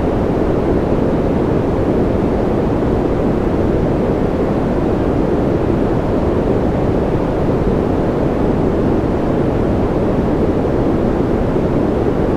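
Steady, unvarying white-noise sleep track, deep in tone with little hiss and no rise or fall.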